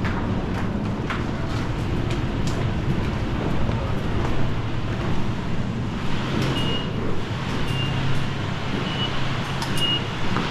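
Seibu Shinjuku Line electric train running along the track: a steady rumble with scattered clicks. From about six seconds in come several short, high squeals.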